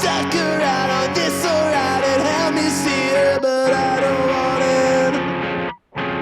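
Punk rock song: a full band with distorted guitars and sung vocals. About five and a half seconds in, the music stops dead for a moment, then the guitar comes back in.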